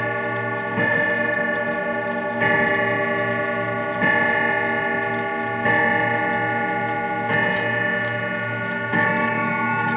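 Howard Miller grandfather clock striking the hour: six evenly spaced ringing strikes about one and a half seconds apart, each ringing on until the next, with the clock ticking underneath.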